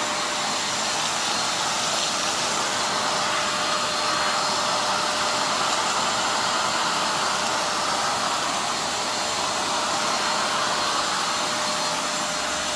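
Total TVC1412 800 W wet and dry vacuum cleaner running steadily, a loud even rush of air with a steady motor whine, as it sucks up pebbles, stones and sand from the floor.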